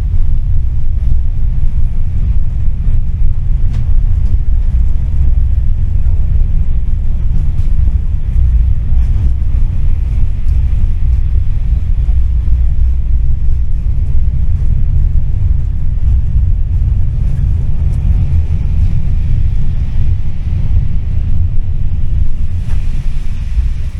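Steady low rumble heard aboard a tram, with a few faint clicks and knocks.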